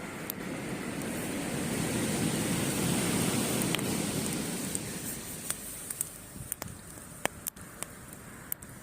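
A wave on the beach surging in and washing back. It swells to its loudest about three seconds in and then fades, while a wood campfire crackles with sharp pops that stand out more in the second half.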